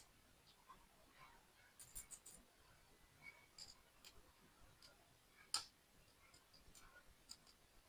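Faint, scattered clicks and taps of small plastic toy building pieces being handled and fitted together, with one sharper click about five and a half seconds in.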